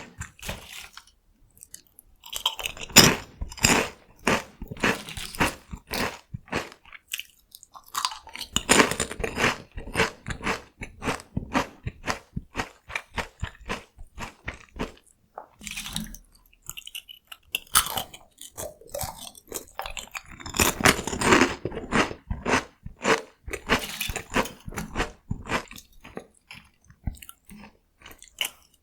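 Close-miked crunching and chewing of crispy cone-shaped corn snacks (Kkokkal-cone), dense crackly bites in three long bouts broken by short pauses.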